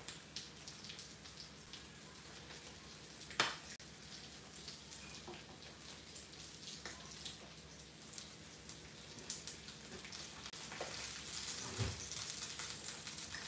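Bacon and sausage patties sizzling on a griddle: a steady hiss with scattered small pops and crackles, getting louder near the end. A single sharp click about three and a half seconds in.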